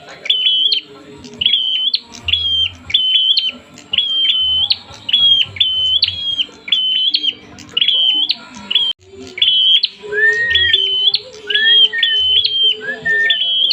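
Prinia (prenjak) calling agitatedly, as in a fighting call: a short, bright note ending in a sharp upward flick, repeated about twice a second without a break. About ten seconds in, three lower rising notes join it.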